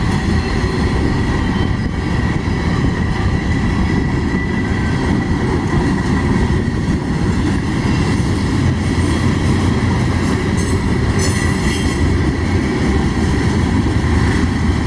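Freight train rolling past, a loud steady rumble of wheels on rail with a thin steady squeal held above it.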